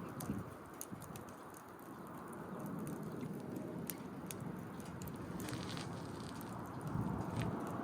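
Wood fire crackling in a Kamado Smart Grill B6, with scattered sharp pops and ticks. Under it is a low rushing noise that grows louder near the end.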